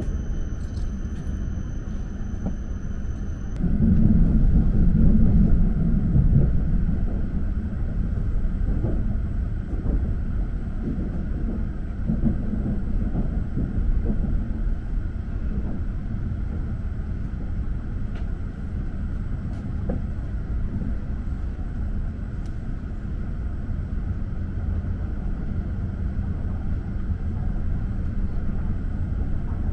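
E7 series Shinkansen running on the rails as it slows into its terminal station, heard inside the passenger car as a steady low rumble. A high steady whine stops about three and a half seconds in, and the rumble grows louder for a few seconds after.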